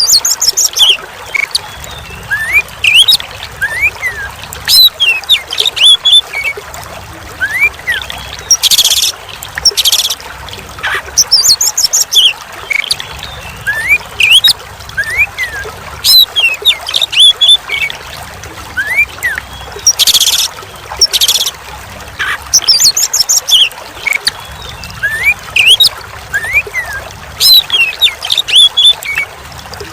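Oriental magpie-robin (kacer) singing: loud phrases of quick rising and falling whistles mixed with harsh high buzzy notes, repeated every couple of seconds. Steady trickling water runs underneath.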